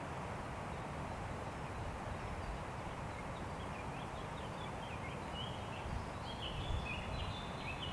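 Steady wind through a forest, with a small songbird's short chirps and twitters joining faintly about three seconds in and growing louder near the end.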